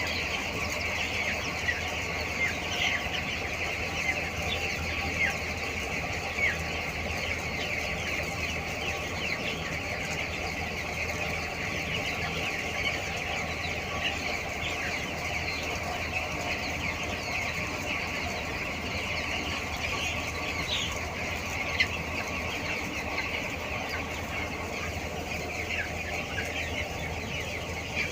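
A large flock of two-week-old broiler chicks peeping and cheeping continuously in a dense chatter, over a steady low hum.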